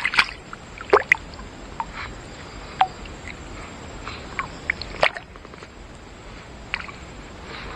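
Water dripping and splashing lightly, with scattered small clicks and taps. The loudest taps come about a second in and again near the middle.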